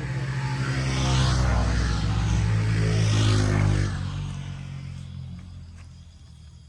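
Motorbike engine running, swelling over the first second and dying away after about four seconds.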